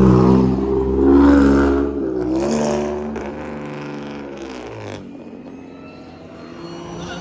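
Car engines revving hard as the cars accelerate away in a street race. The engine note shifts in pitch a couple of times and fades as the cars pull into the distance.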